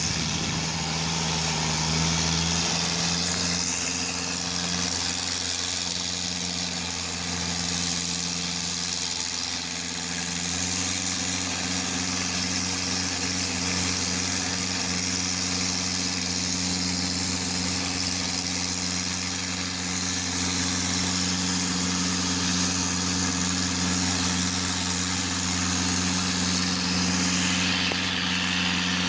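Massey Ferguson tractor engine idling steadily, its speed shifting slightly a couple of times.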